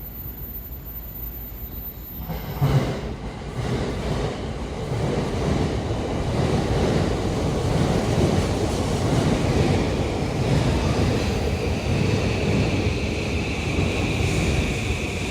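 A 15-car Sobu Rapid Line electric train pulling into the platform: a knock about three seconds in, then the steady rumble and clatter of the cars passing on the rails, growing louder. A high steady whine joins about ten seconds in as the train slows.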